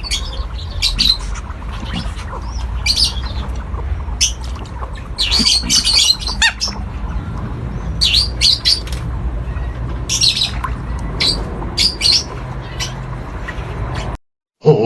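Birds calling in repeated short, high squawks and chirps, coming in clusters over a steady low rumble; the sound cuts off suddenly near the end.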